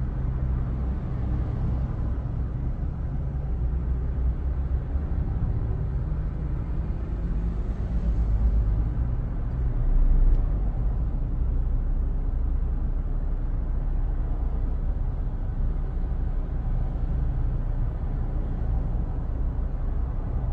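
Car running with a steady low rumble, swelling briefly about halfway through.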